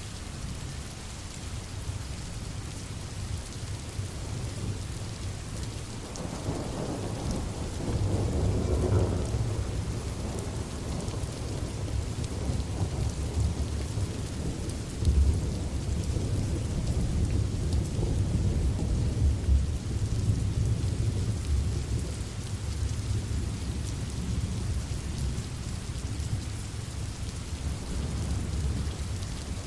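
Steady rain, with a long roll of thunder that builds about six seconds in and keeps rumbling low through the rest, with a sharper crack about halfway.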